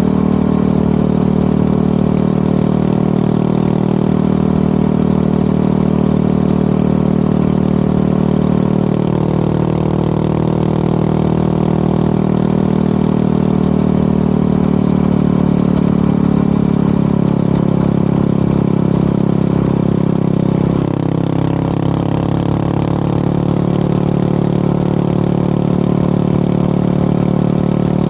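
2011 Yamaha WR250R's single-cylinder four-stroke engine, fitted with an FMF Powercore 4 exhaust, running steadily under way. The revs drop briefly about 21 seconds in, then pick up again.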